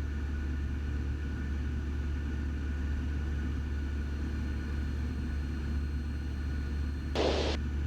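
Steady low drone of a Cessna 172's engine and propeller heard in the cabin in flight. Near the end comes a brief burst of radio static, about half a second long, with a sharp start and stop.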